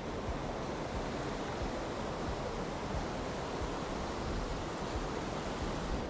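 Steady rushing of a waterfall and its stream, an even unbroken wash of water noise.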